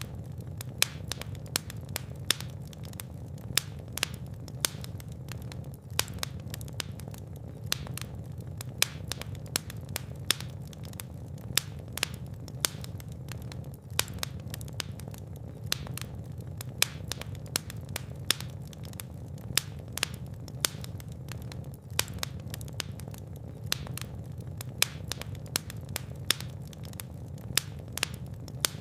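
Fire burning in a fireplace: many sharp crackles and pops, a few louder snaps every second or two, over a low steady rumble of the flames.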